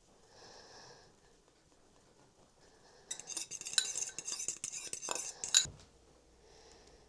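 Clattering and rattling of handled hard objects for about two and a half seconds, starting about three seconds in and ending in a sharp knock.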